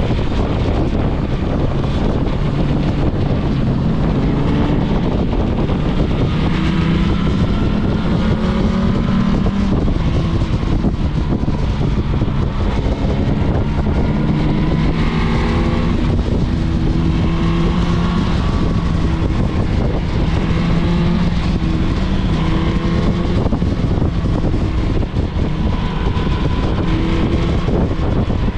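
Motorcycle engine running while riding, its note climbing in short steps and dropping back as it accelerates through the gears. Heavy wind noise on the microphone.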